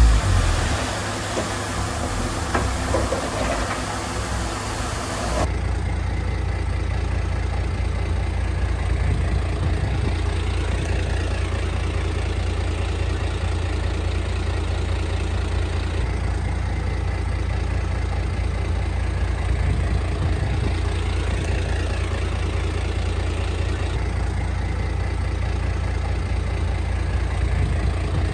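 Heavy earthmoving machine's diesel engine running steadily at a low rumble. For the first five seconds or so a noisier, harsher machine sound, starting with a thump, fills the track, then it changes abruptly to the steady low engine rumble.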